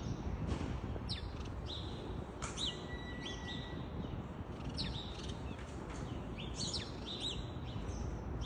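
Small birds chirping: many short, high, downward-sliding chirps, several birds calling over one another, over a steady low background rumble.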